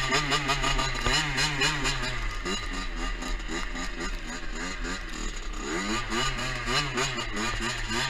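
Two-stroke dirt bike engine running under riding load, its revs rising and falling constantly as the throttle works. It eases off for a few seconds in the middle, then revs up again about six seconds in.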